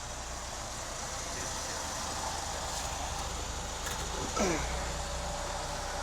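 Steady motor-vehicle noise with a low hum, with a short squeak that falls quickly in pitch about four and a half seconds in.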